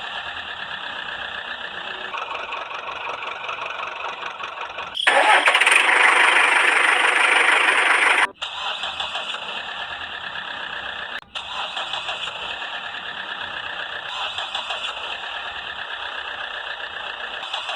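Steady buzzing engine-like running with a fast ripple, thin and without deep bass, growing louder and harsher for about three seconds in the middle; it breaks off abruptly twice, as at edits.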